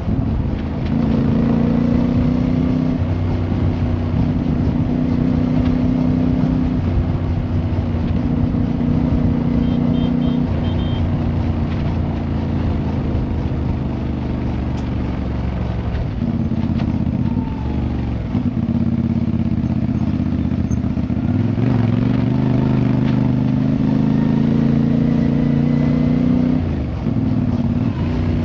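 Motorcycle engine running under way, its pitch holding steady through stretches and then rising and falling with changes of throttle and gear several times.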